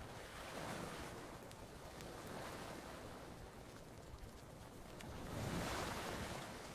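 Ocean waves washing onto a beach, swelling twice, about a second in and again near the end, with a few faint crackling pops of a campfire.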